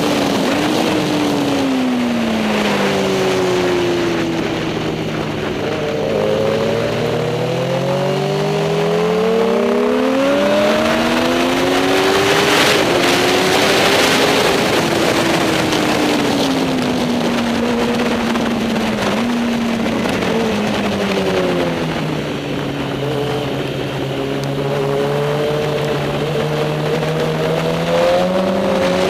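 Several superbike racing motorcycle engines running at speed around a circuit, their pitch slowly falling and rising again as the bikes brake and accelerate, with more than one engine heard at once.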